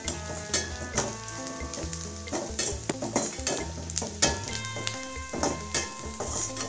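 Sliced onions, curry leaves and chillies sizzling in hot oil in a pan, stirred with a ladle that scrapes and knocks against the pan in frequent short clicks.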